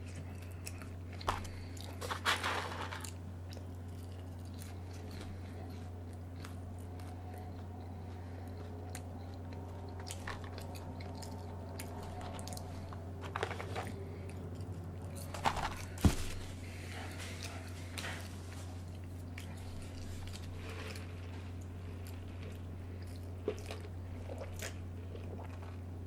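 A person biting and chewing food, with intermittent crunches and sharp little clicks, the sharpest about 16 seconds in, over a steady low hum.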